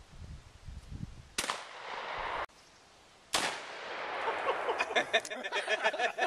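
Two gunshots about two seconds apart, each followed by an echoing decay.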